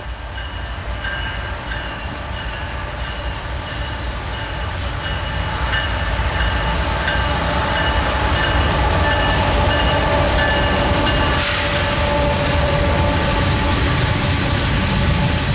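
Union Pacific GE diesel locomotive approaching and passing at the head of a coal train, its low rumble growing louder until it is alongside, then the coal hopper cars rolling past. Steady high tones run through it, and there is a short hiss about eleven seconds in.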